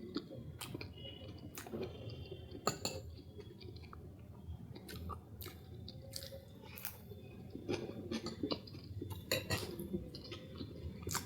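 Close-up chewing of a soft vanilla cupcake, with many short clicks scattered throughout.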